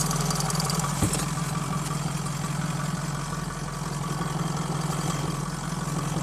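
Blue Bird Wanderlodge motorhome's engine idling steadily, heard up close at the open engine compartment, with one small knock about a second in.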